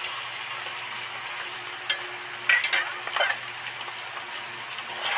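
Potatoes and spice masala frying in oil in a metal kadai, a steady sizzle; the masala is cooked to the point where the oil separates. A metal spatula scrapes against the pan a few times around the middle.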